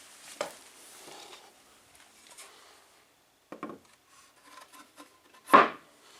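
Plywood pieces being handled and set against each other: a few short wooden knocks with light rubbing between them, the loudest knock near the end.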